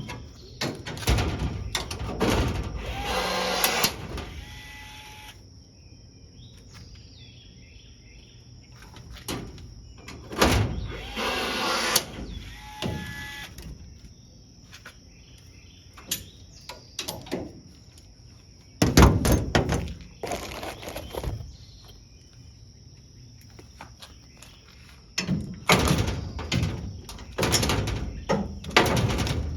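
Intermittent shop work on a race car's body panels: several short spells of tool noise and sharp knocks, separated by quiet gaps, with a faint steady insect trill underneath.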